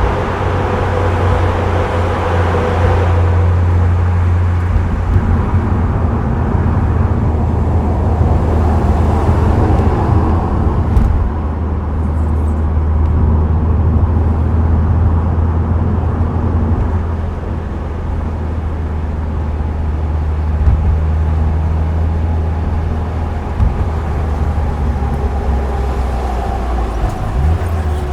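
Subaru Impreza WRX STI Spec C's turbocharged flat-four with an aftermarket A-RM exhaust, cruising steadily: a deep, even engine and exhaust drone under tyre and road noise. A brighter hiss on top fades about three seconds in.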